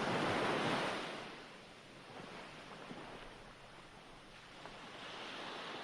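Recorded ocean waves washing on a shore: a wave surges early, ebbs away, and the next begins to build near the end.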